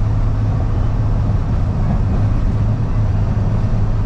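Steady drone of a box truck's engine and tyre noise inside the cab while cruising at highway speed, with a constant low hum.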